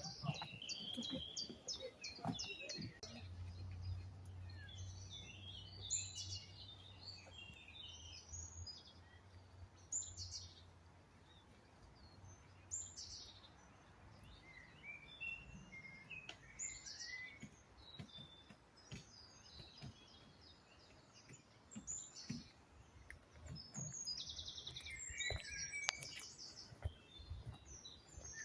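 Several songbirds singing and calling, short chirps and trills scattered throughout, with a rapid trill of repeated notes about three-quarters of the way in. A low steady hum runs under the first half.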